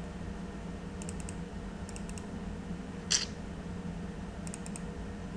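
Computer keyboard being typed on in short bursts of a few quick keystrokes, with one louder keystroke about three seconds in, over a steady low hum.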